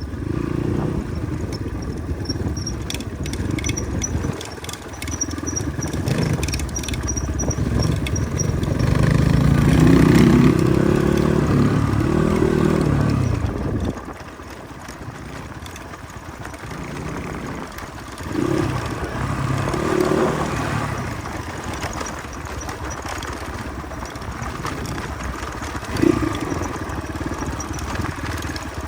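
Motorcycle engine running, its pitch rising and falling as it revs, loudest about ten to thirteen seconds in.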